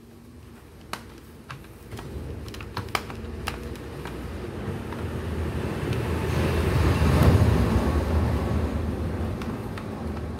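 A motor vehicle passing by: a rough engine-and-road noise that swells to a peak about seven seconds in, then fades. A few light clicks and taps of small parts being handled come in the first three seconds.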